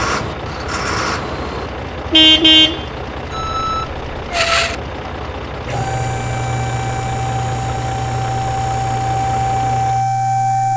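A vehicle horn toots twice in quick succession about two seconds in, and once more about four and a half seconds in, over a steady motor-like rumble. About six seconds in, a steady held tone starts.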